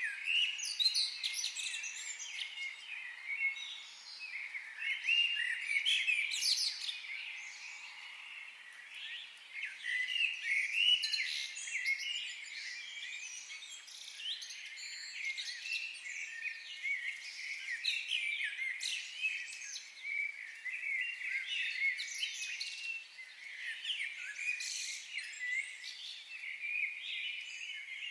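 Several songbirds singing and chirping together, a dense chorus of short high chirps and trills.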